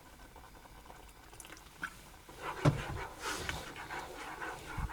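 A pot on a camp stove knocks once, then hisses briefly as a little water is added to the cooking oats.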